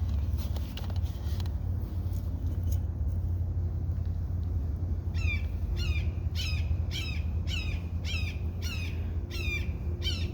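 A bird calls repeatedly from about halfway through: roughly ten harsh, falling calls at about two a second. A steady low rumble runs underneath.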